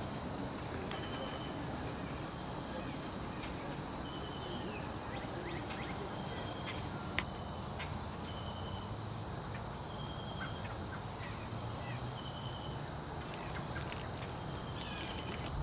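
Steady high-pitched insect chorus, with short chirps repeating about every two seconds and a single click about seven seconds in.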